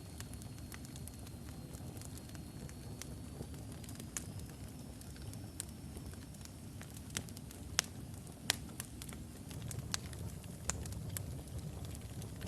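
Wood fire of burning logs in a fireplace: a steady low rumble of flames with scattered sharp crackles, and a few louder pops past the middle. A faint thin high whistle, rising slightly in pitch, runs through the first half.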